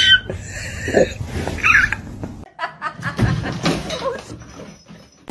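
People laughing and chuckling, with a short high-pitched sound at the start and another near the middle, and an abrupt change of background about halfway through.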